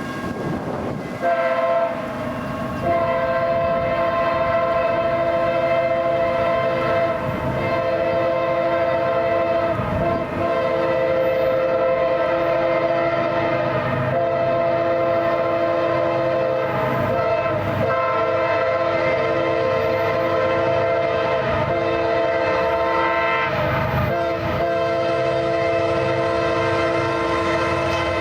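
CSX ES44AH locomotive's Nathan K5LA five-chime air horn blowing long, nearly unbroken blasts, starting about a second in; the chord is off because a bell is fouled. Railcars roll underneath.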